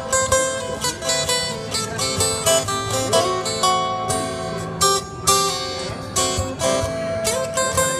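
Acoustic guitar playing an instrumental break, a quick run of bright plucked and strummed notes with no singing.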